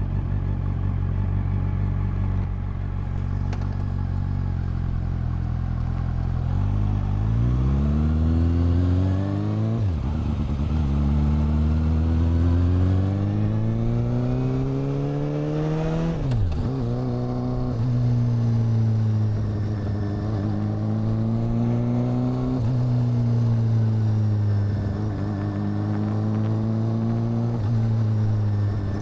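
Exhaust of a Honda CB400 Super Four's inline-four engine. It runs steadily at low revs, then pulls away with the pitch climbing, drops twice for upshifts about ten and sixteen seconds in, and then cruises with the revs gently rising and falling.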